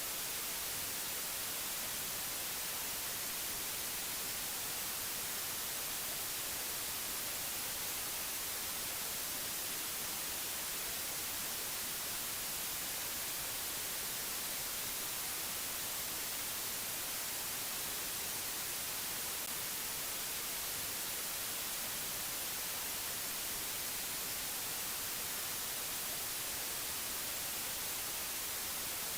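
Steady white noise: an even hiss, strongest in the high frequencies, with no change or events.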